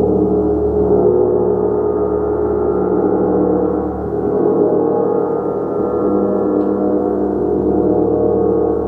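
Gong played continuously in a sustained wash, many overlapping tones droning and swelling without distinct strikes, its energy mostly low and middle in pitch.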